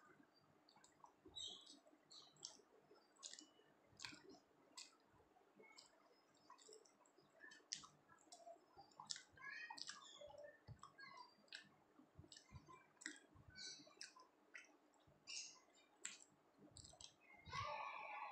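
Faint, scattered mouth clicks and smacks from chewing food eaten by hand, with a brief voice in the background near the end.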